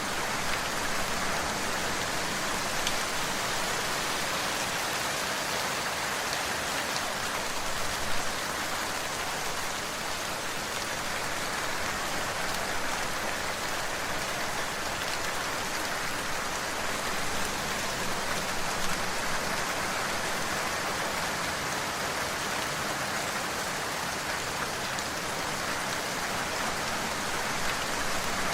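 Steady rainfall, a dense even hiss of rain falling on a surface with scattered individual drop taps.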